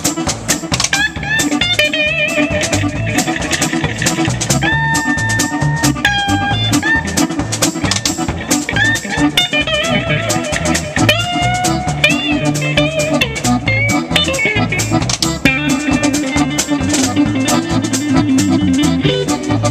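Live band playing an instrumental passage: a lead melody line with bends and held notes over a steady drum beat and a shaker.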